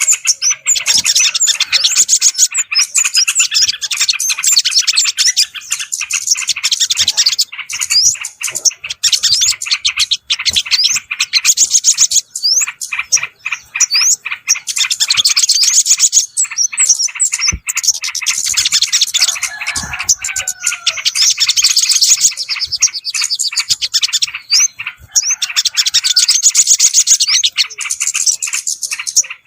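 Bird-lure recording of small songbirds calling: loud, dense, fast chattering and twittering, broken by short pauses, with a lower whistled phrase about twenty seconds in.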